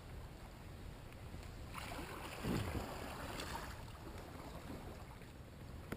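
Water splashing and sloshing around a kayak being pushed off from the shore, loudest about two to three and a half seconds in, over a low steady rumble.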